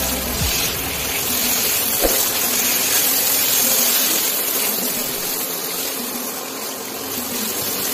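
Potatoes, onion and tomato sizzling in oil in a metal pan while being stirred with a spatula, a steady hiss with a light knock about two seconds in.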